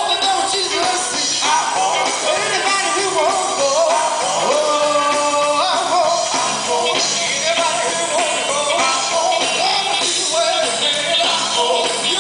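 Gospel group singing with band accompaniment, recorded live.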